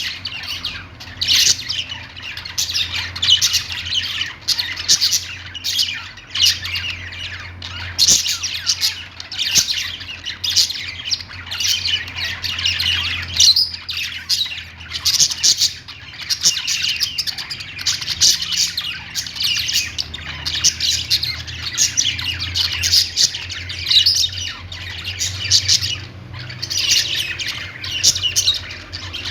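Several pet budgerigars chattering together, a steady stream of overlapping high chirps, warbles and squawks.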